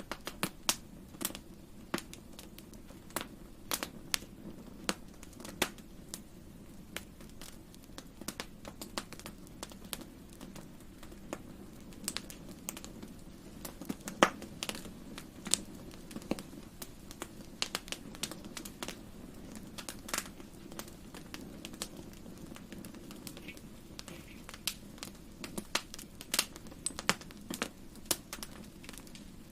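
Fireplace fire crackling: irregular sharp pops and snaps over a steady low rumble of the flames, with the loudest pop about halfway through.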